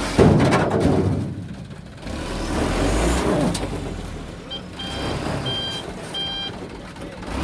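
A dump truck's reversing alarm beeps about four times, roughly half a second apart, over the truck's engine running. A sudden loud burst of noise comes right at the start.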